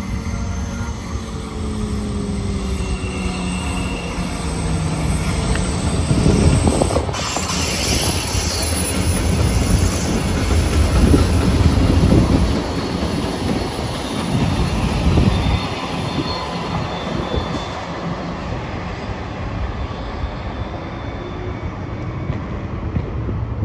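Short freight train passing: BNSF diesel-electric locomotives running, their engine rumble loudest as they go by about a quarter to halfway through, then fading as the tank cars and caboose roll past. Thin steel-wheel squeal rises now and then from the curve.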